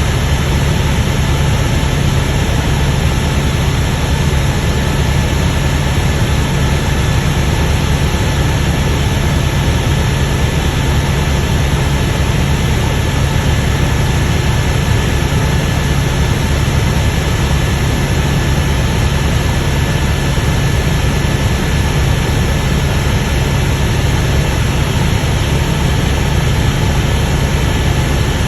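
Helicopter in flight: steady engine and rotor drone, a strong low hum with a thin constant whine above it, unchanging throughout.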